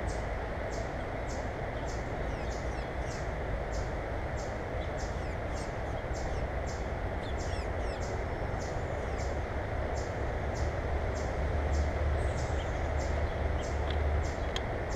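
Steady outdoor noise with a low rumble that swells about two-thirds of the way through, a high short chirp repeating evenly just under twice a second, and a few faint bird chirps.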